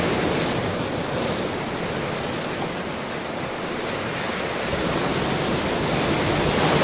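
Ocean surf: a steady rush of waves washing in, easing a little about halfway through and swelling again near the end.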